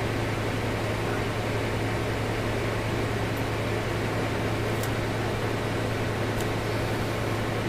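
Steady mechanical hum with a fan-like hiss, as from a fan or air conditioner running, with two or three faint clicks about five to six and a half seconds in.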